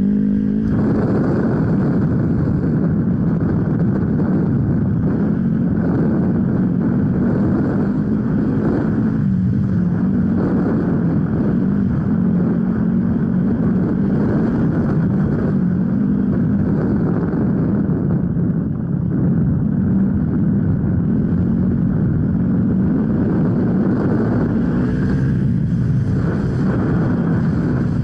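Off-road motorcycle engine running continuously, its pitch rising and falling with the throttle.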